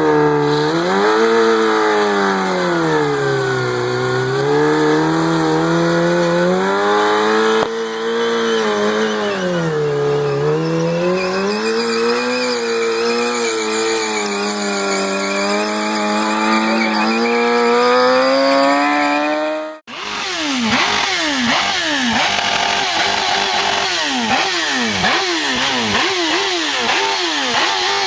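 A motorcycle engine running, its pitch rising and falling slowly as the throttle opens and closes. About two-thirds through, it gives way abruptly to another engine that revs up sharply and drops back again and again, about once a second.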